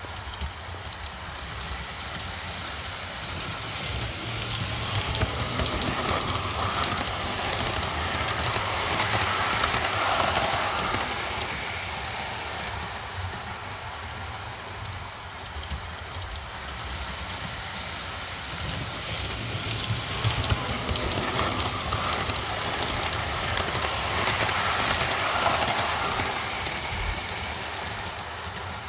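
O scale model train with refrigerator cars rolling along the track. It grows louder twice as it comes close, about ten seconds in and again near the end.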